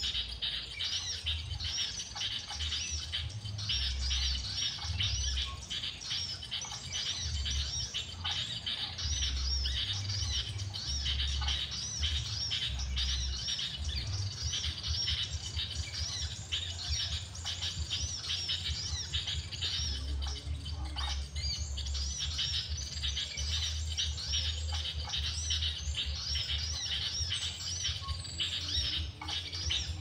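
Small bird chirping in a rapid, unbroken series of short high notes, with an uneven low rumble underneath.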